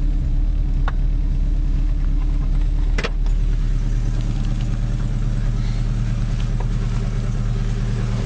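Alfa Romeo 33 1.7 8V flat-four boxer engine idling steadily just after a cold start in freezing weather, with a sharp click about three seconds in.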